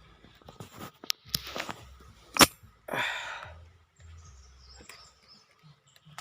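A single sharp air-rifle shot about two and a half seconds in, followed at once by a short rushing noise, with light rustles and clicks of gun handling before it.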